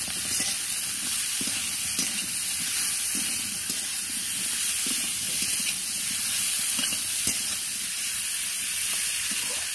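Potato, pointed gourd and soya chunks frying in oil in a kadai, a steady sizzle, with now and then a faint scrape of a metal spatula as they are stirred.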